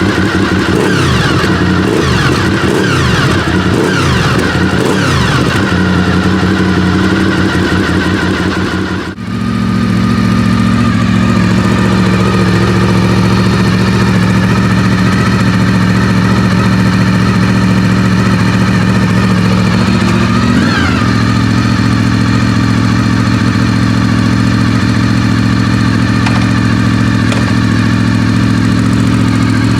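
Honda VFR800 RC46's V4 engine heard through its exhaust: revved up and down repeatedly for the first several seconds, then, after a short break, idling steadily with one brief blip of the throttle about two thirds of the way through.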